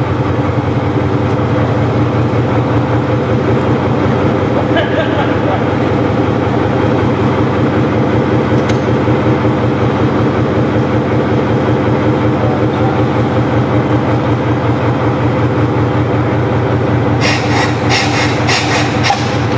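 Marshall tractor engine running steadily with a fast, even beat. Near the end, a quick run of sharp clicks or knocks.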